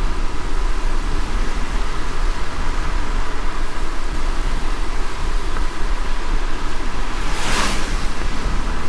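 Steady low road rumble and hiss of a car driving in light rain, with one brief whoosh near the end.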